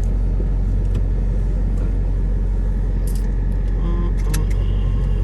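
Straight-piped Dodge Durango SRT's Hemi V8 heard from inside the cabin, running steadily with a deep, even low drone and no revving.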